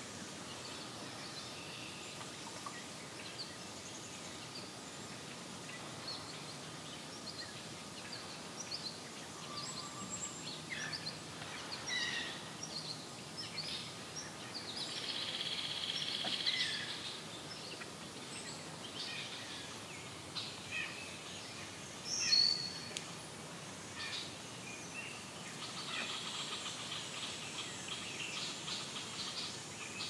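Songbirds calling over a steady faint hiss: scattered short high chirps throughout, a longer trilled song about fifteen seconds in, a sharp loud call a little past twenty seconds, and a busier run of calls near the end.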